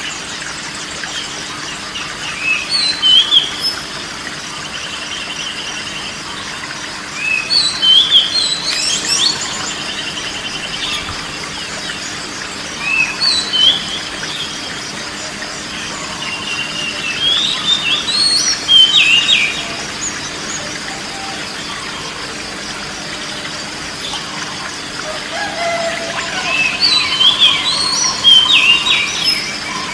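A songbird singing in short phrases of quick whistles and trills, five times with pauses between, over a steady background hiss.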